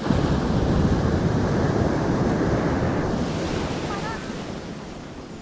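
Ocean surf: a wave breaks with a sudden rush and then washes in, fading slowly over several seconds.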